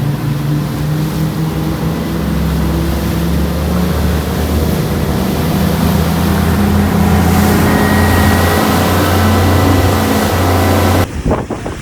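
Outboard engines of a Grady-White fishing boat running under way: a steady, loud engine drone with water and wind rushing over it, the note stepping up slightly a few seconds in. Near the end it cuts off abruptly to waves and wind.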